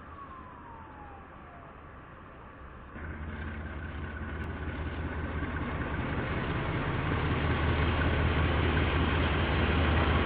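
Diesel locomotive engine rumbling as a KiwiRail train approaches, starting suddenly about three seconds in and growing steadily louder.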